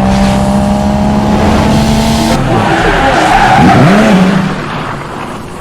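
A car engine running hard with tyres skidding, loud, fading away over the last second or so.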